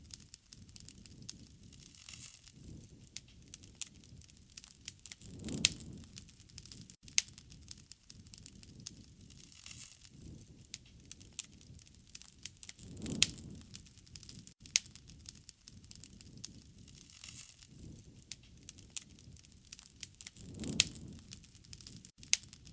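Wood fire crackling, with frequent sharp pops and snaps over a low rumble of flames that swells three times, at even spacing of about seven and a half seconds.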